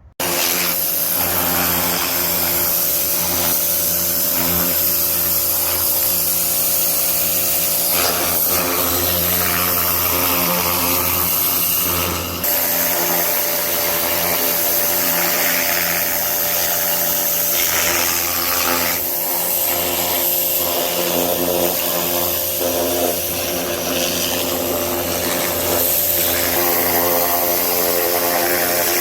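Pressure washer running: a steady motor drone under the loud hiss of the high-pressure water jet, cutting in suddenly at the start.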